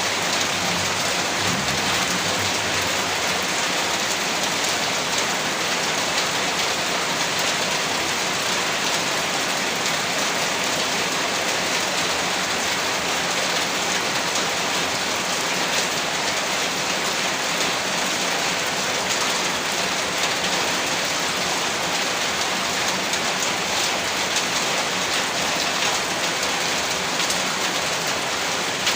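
Heavy rain falling steadily on a roof: a dense, even hiss of rain with scattered sharper drop hits.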